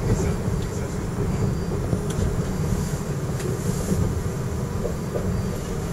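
Electric train running: a steady low rumble heard from inside the front cab, with a few faint clicks.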